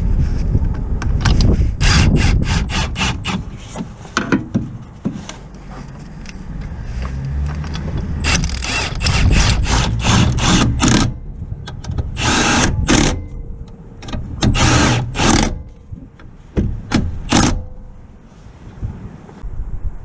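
Mechanic's tool work on a car: a quick run of sharp clicks or knocks early on, then several separate bursts of noise about a second long.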